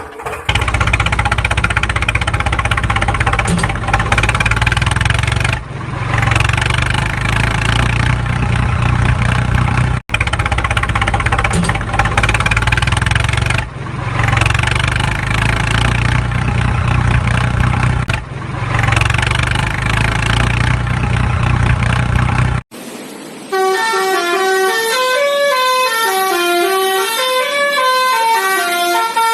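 Horn-like honking with a steady engine drone, looping in stretches of about four seconds with short breaks between them. About 23 seconds in it stops and a simple electronic tune of single notes stepping up and down takes over.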